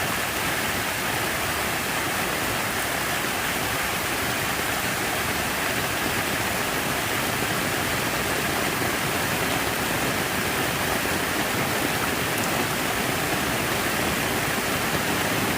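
Steady, unbroken rush of running or falling water.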